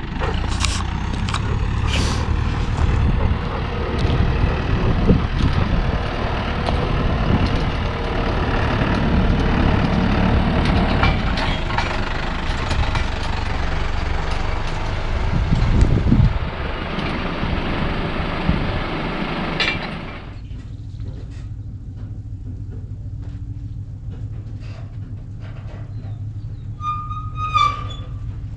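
A vehicle engine running steadily, with broad rattling and wind-like noise over it; about twenty seconds in the noise cuts off suddenly, leaving a quieter low engine hum, and a short high chirp sounds near the end.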